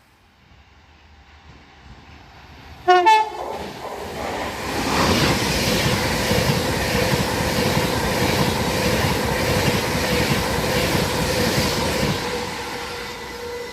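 Avanti West Coast Class 390 Pendolino electric train sounding a short horn blast that drops in pitch about three seconds in, then passing at speed with a loud rush and rhythmic wheel clatter that builds and fades away near the end.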